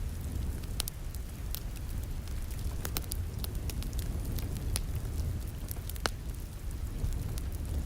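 Wood fire in a fireplace crackling, with irregular sharp pops about once a second over a steady low rumble.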